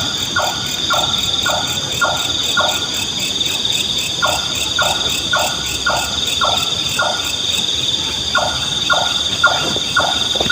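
Nightjar calling: short falling notes about two a second, in three runs of roughly six with brief pauses between. A steady high chorus of crickets or other insects runs underneath.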